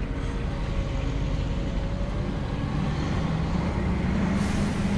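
Old Scania truck's diesel engine running as the manual-gearbox truck drives slowly, its note strengthening toward the end. A short hiss of air comes near the end.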